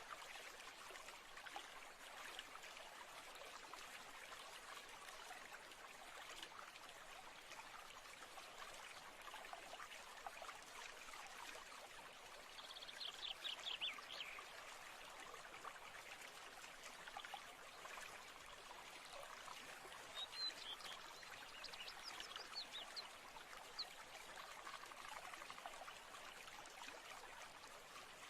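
Faint, steady trickle of a stream, with birdsong over it: a quick falling run of notes about halfway through and a few high chirps a few seconds later.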